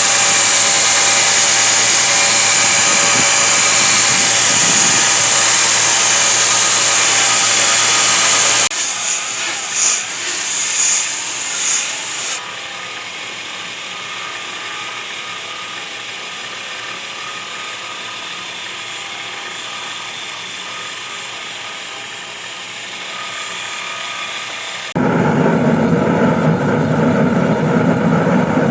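Shop power tools running steadily in three segments cut together: a loud run, then a quieter steady one with a few brief swells, then another loud run starting abruptly near the end.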